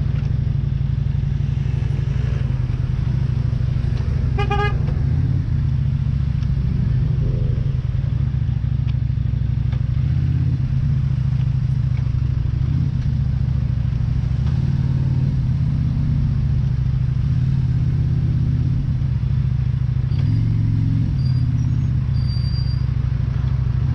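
Motorcycle engine running steadily in traffic, a constant low drone, with a brief beep about four and a half seconds in.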